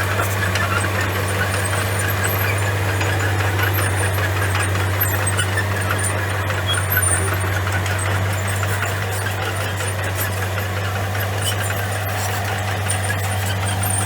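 Bulldozer's diesel engine running steadily at an even speed: a constant low drone, with faint high clicks over it.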